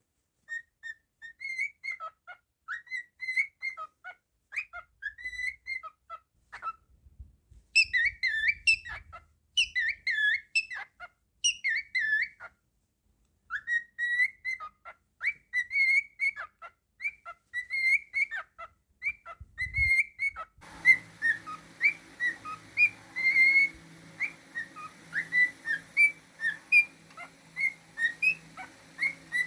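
Cockatiel whistling a tune in short phrases of gliding notes, with a brief pause near the middle. About two-thirds of the way through, a steady low hum comes in behind the whistling.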